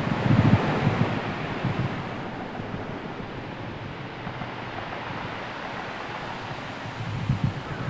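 Sea surf washing in, with wind buffeting the microphone in low rumbling gusts, strongest in the first second and again briefly near the end.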